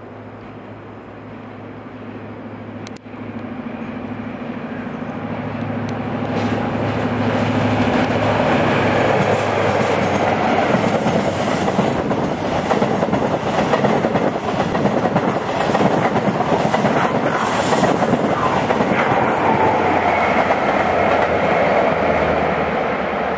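InterCity 125 High Speed Train passing: the diesel engine hum of the leading Class 43 power car grows louder as it approaches, then a loud rush of wheels clattering over rail joints and points as the coaches go by.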